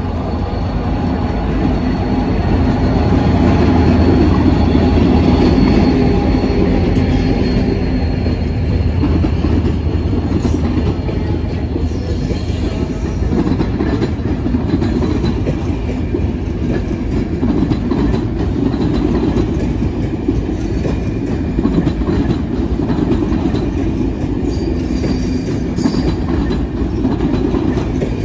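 A locomotive-hauled passenger train rolling past close by: the locomotive's running noise is loudest a few seconds in, then the coaches pass with steady wheel rumble and clicks over rail joints. A thin high wheel squeal sounds through the first several seconds.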